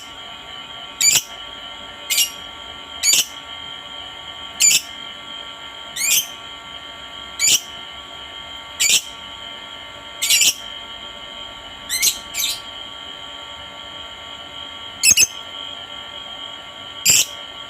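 Lovebird giving short, shrill chirps that fall sharply in pitch, about one a second, with a few longer pauses. A steady high-pitched ringing runs underneath.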